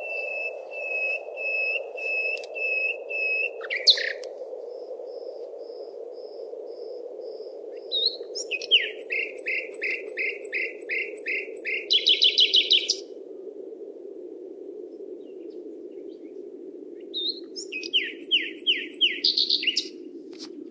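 Songbirds singing: phrases of repeated clear chirped notes, one a run of falling chirps ending in a fast trill about twelve seconds in, over a steady low rushing background.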